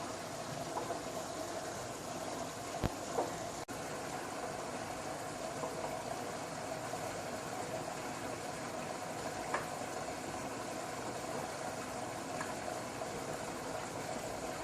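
Front-loading washing machine running mid-wash: a steady motor hum with the wash churning, and a few sharp clicks about three seconds and nine and a half seconds in.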